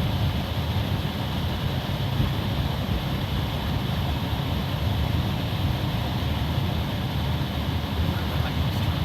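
Car interior noise while driving on snow-covered roads: a steady low rumble of engine and road with an even hiss from the tyres.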